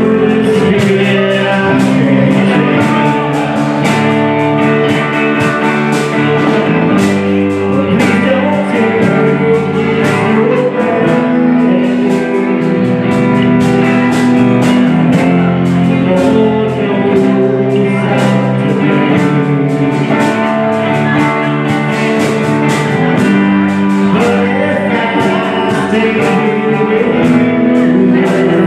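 Rock music played by a band: guitars over a steady drum beat.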